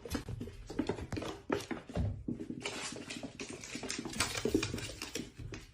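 Irregular light taps, clicks and rustling, like small objects being knocked about or scrabbled at, with no voice.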